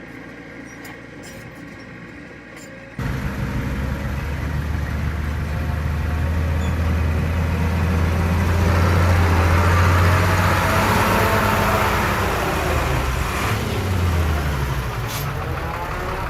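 Heavy diesel earthmoving machine engine working under load. A quieter hum cuts abruptly about three seconds in to the loud engine, which swells, then eases off with a falling pitch near the end.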